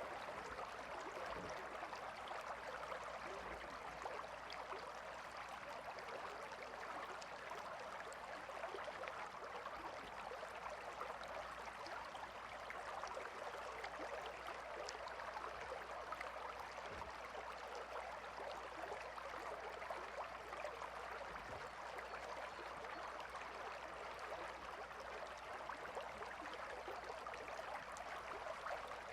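River water flowing and babbling over stones: a steady, even rushing.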